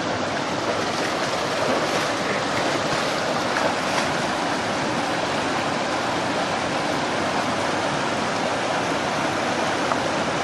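Steady rushing water, like a stream or rapids, an even noise with no breaks.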